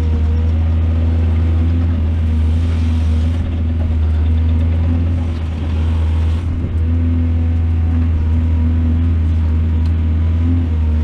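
Heavy diesel engine of an excavator running steadily with a deep hum, with a brief rushing noise twice.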